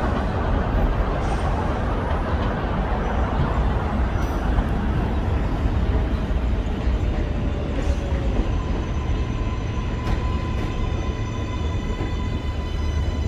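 New York City 7 subway train running on the elevated line with a steady, loud rumble. About eight seconds in, a steady high electric motor whine joins it.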